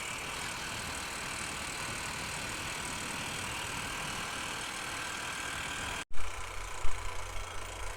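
Honda motorcycle riding along at speed: a steady rush of wind and road noise over the running engine. About six seconds in the sound cuts out for an instant, then comes back as a heavy low rumble with a few sharp thumps.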